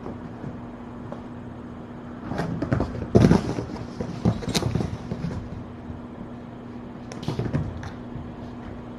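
A few bursts of knocking and rustling clatter, the loudest about three seconds in and a shorter burst near the end, over a steady low electrical hum.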